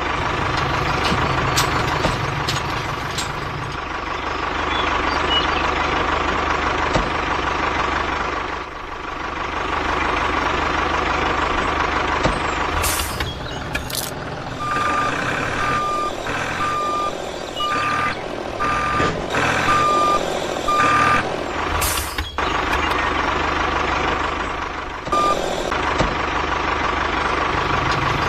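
Vehicle engine running steadily, with a reversing alarm beeping about once a second for around seven beeps in the middle.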